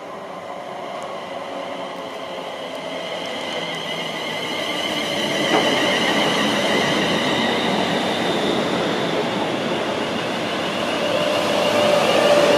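A train approaching along the track, growing steadily louder, with a high wavering whine over the rumble of the wheels.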